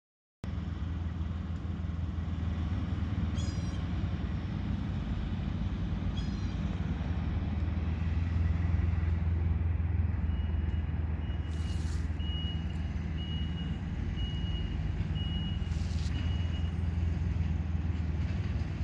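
A vehicle engine running steadily with a low hum, cutting in abruptly about half a second in. Past the middle, a reversing alarm beeps about once a second for several seconds.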